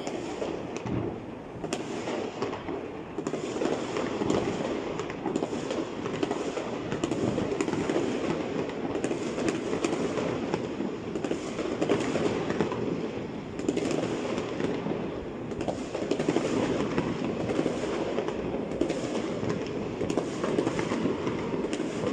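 Fireworks going off continuously, a dense crackle of many small pops and bangs without a break.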